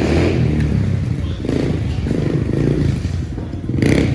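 Motorcycle engine running loud and close, its pitch shifting up and down, with a short burst of noise near the end.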